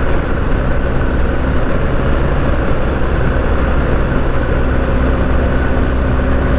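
BMW R1250GS boxer-twin engine running at a steady cruising speed, with a constant low drone and rushing wind noise.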